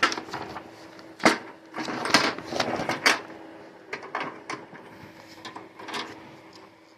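Packaging and parts being handled during an unboxing: irregular rustling and crinkling with clicks, and a sharp knock about a second in. A faint steady hum runs underneath.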